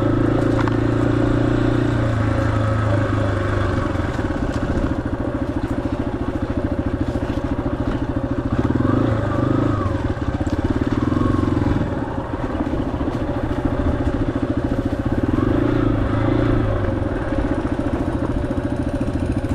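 Yamaha XT250's single-cylinder four-stroke engine running steadily while riding, the note easing off and picking back up a few times as the throttle changes, with the deepest dip about twelve seconds in.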